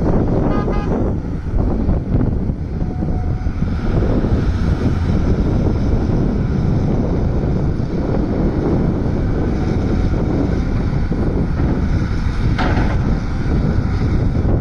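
Volvo excavator's diesel engine running steadily under load, heard from the operator's cab, with a brief clatter near the end.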